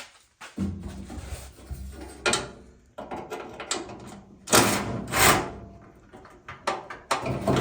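Metal clicks, clunks and scraping as parts inside a pickup truck's door are worked loose by hand. The loudest are two rattling scrapes about halfway through, with a steady low hum underneath.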